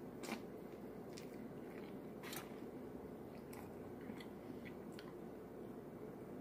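Faint close-up sounds of a person biting and chewing chicken wings: a scattering of short sharp mouth clicks and smacks, the strongest a little over two seconds in, over a steady low room hum.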